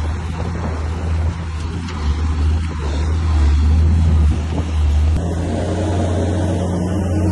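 Heavy diesel earthmoving machine's engine running steadily with a deep hum; the sound shifts about five seconds in.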